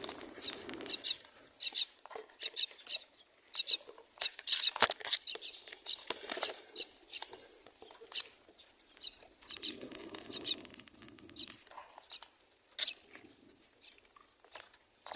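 Myna nestlings chirping in the nest: many short, high chirps in irregular bursts, with clicks and rustling among them.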